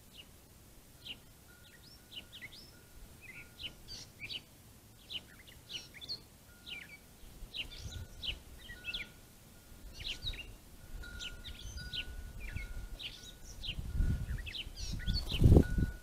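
Small songbird chirps, quick high notes repeated all through, from a bird off camera. Underneath, a blue jay splashes in a shallow bird bath, the splashing growing louder and loudest near the end.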